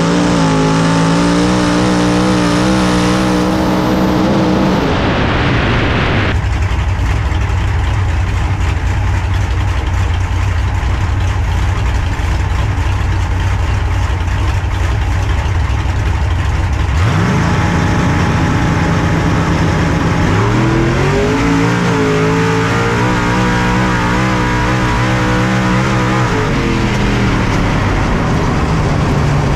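Drag race car's engine heard from on board. It runs at high revs and cuts back to a low idle about five seconds in. About twenty seconds in it revs up again, holds steady at high revs for several seconds, then drops back near the end.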